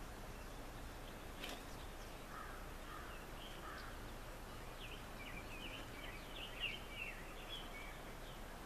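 Birds chirping: a few lower calls, then a run of quick high chirps through the middle, over faint steady outdoor background noise.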